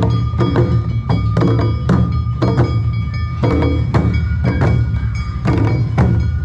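Awa Odori festival music: a troupe's band playing the driving two-beat dance rhythm, with sharp strikes about three times a second over strong drumming and steady high held notes.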